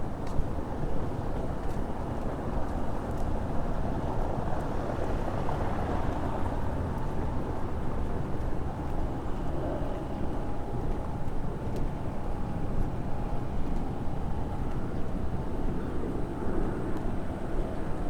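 Steady outdoor rumble of street traffic, with no single event standing out; a faint steady hum joins about halfway through.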